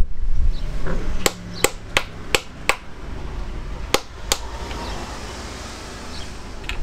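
A hammer striking metal on a classic Fiat 500 engine: five sharp taps in quick, even succession, then two more a moment later. Some low handling noise comes before them.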